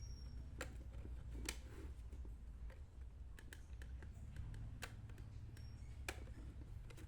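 Scattered light clicks and taps, seven or eight of them at uneven intervals, over a low steady hum.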